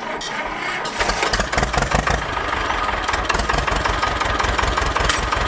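An engine starting up, then running steadily at idle from about a second in with a rapid, even beat.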